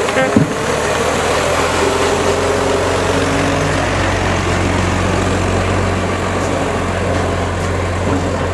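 Early antique car's engine idling steadily with an even low hum, and a brief knock just after the start.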